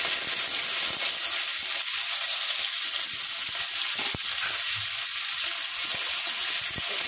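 Sliced onions, green chillies and curry leaves sizzling in hot oil in a kadai as they are stirred with a spatula. There are two sharp clicks, one about four seconds in and one near the end.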